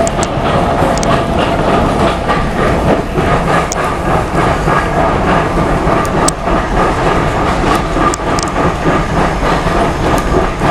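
Running noise inside a moving heritage railway passenger carriage: a steady rumble of the wheels on the track with frequent irregular clicks and knocks.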